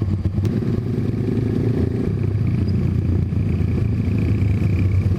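Motorcycle engine running steadily, its rapid firing pulses making a dense low rumble.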